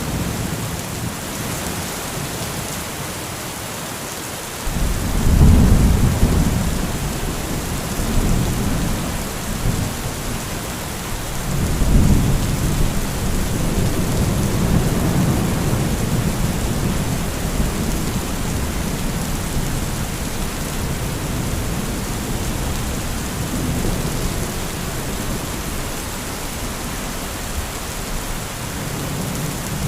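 Heavy rain falling steadily, with rolls of thunder: a loud rumble breaks in suddenly about five seconds in, and a second long rolling rumble starts around twelve seconds and slowly dies away.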